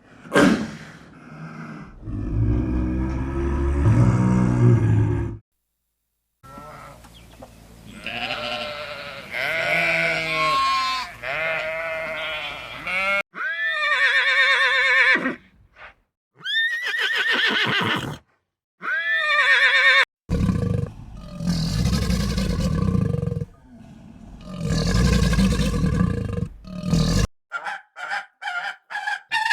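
A run of separate animal calls edited one after another, farm animals among them. Low, loud calls open and close the run, higher quavering calls fill the middle, and near the end come rapid repeated short calls.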